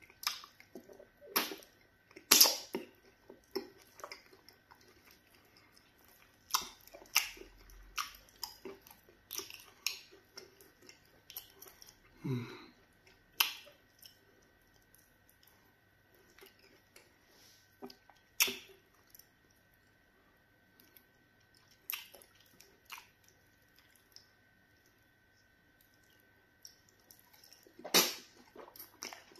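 Close-miked eating sounds of fufu with okra soup eaten by hand: wet chewing, lip smacks and squelches in irregular sharp smacks with quiet gaps. The loudest smacks come a couple of seconds in and near the end.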